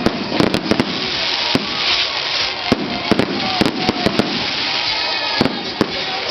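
Firecrackers popping in rapid, irregular runs of sharp cracks, with music underneath.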